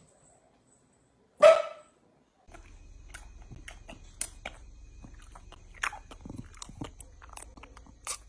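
A dog barks once, short and loud, about a second and a half in. After that come scattered small clicks and taps over a low steady hum.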